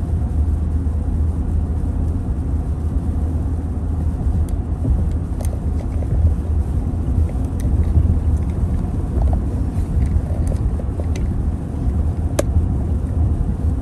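Steady road and engine rumble inside a moving car's cabin, deep and even, with a few faint clicks.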